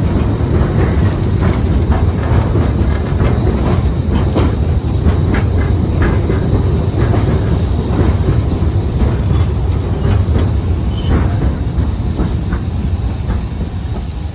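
Heritage railway train running along the track: a steady low rumble of carriage wheels with irregular clicks and knocks as they pass over rail joints.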